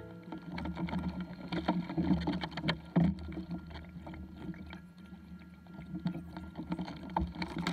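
Kayak on the water: irregular small knocks and clicks against the hull over a low rumble of water and wind.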